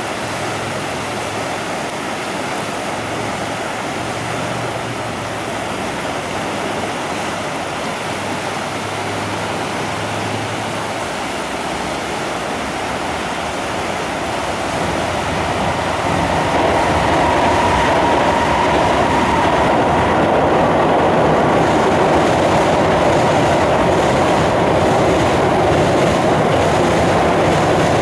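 Tobu Tojo Line train crossing a steel railway bridge, with rushing river water underneath. The train noise grows louder a little past halfway, and a steady whine joins in.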